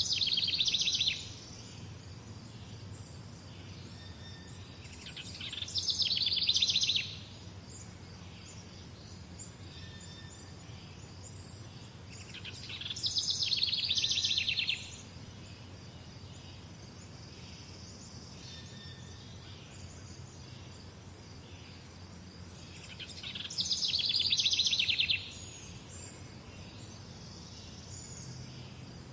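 A songbird singing the same song over and over: four phrases, each a rapid high trill that swells in loudness for a second or two and then stops abruptly, several seconds apart. Faint short chirps come between the songs over a steady low background hum.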